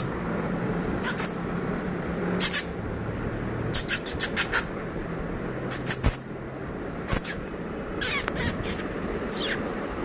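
Fledgling sunbird giving short, high-pitched chirps in small clusters of one to four, about every second, over a faint steady low hum.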